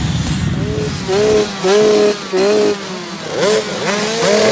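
Motocross dirt-bike engines revving hard. The engine note swells and holds in a series of short pulls about half a second each, then gives a few quick rising blips of the throttle near the end.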